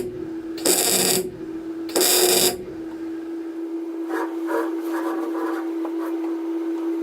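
MIG welder laying short tack welds on 18-gauge sheet steel: two loud bursts of crackling, each about half a second, then fainter crackle, over a steady hum.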